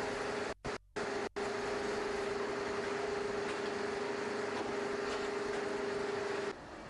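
Steady machine drone with a constant low hum, like an engine running. The sound drops out briefly three times near the start and falls away to a quieter background just before the end.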